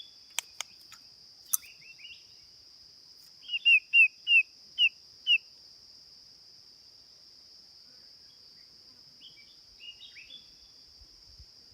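A bird chirping: a quick run of about seven short, sharp notes a few seconds in, then a few softer notes near the end, over a steady high-pitched insect buzz.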